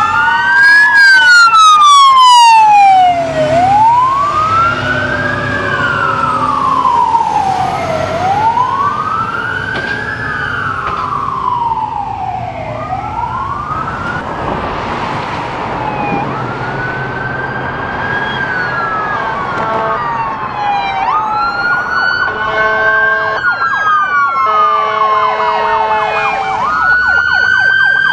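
Emergency vehicle siren wailing, its pitch rising and falling in slow sweeps about every two and a half seconds. Toward the end a second siren overlaps it and a pulsing horn blares, over a low engine and road rumble.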